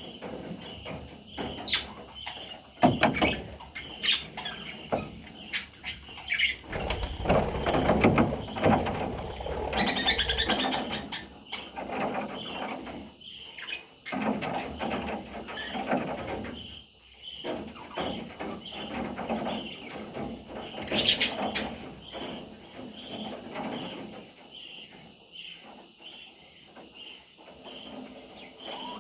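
Budgerigar chicks chirping, short calls repeated in a steady rhythm, with rustling and wing-flutter of the birds moving about, loudest in the first half. A couple of louder, higher calls break in.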